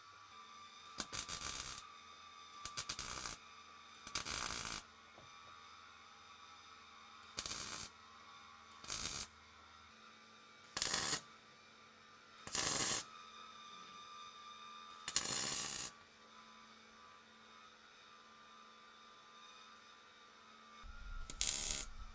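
Welder laying short tack welds on an exhaust pipe: about nine brief crackling bursts, each half a second to a second long, a second or two apart, with a longer pause before the last one near the end.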